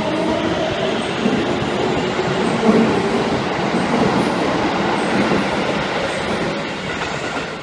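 Tokyo Metro 7000-series electric train running along the platform track, with steady wheel-on-rail noise that drops away near the end.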